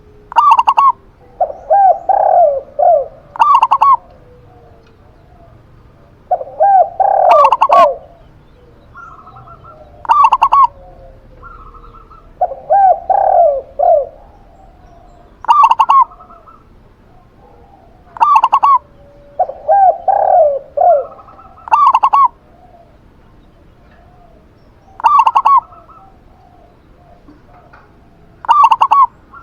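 Zebra dove and spotted dove cooing back and forth. Short, higher notes come every few seconds, traded with lower rolling coo phrases.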